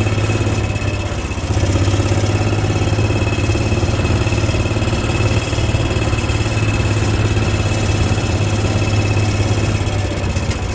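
Vehicle engine running steadily at low speed, with a faint high whine over its hum.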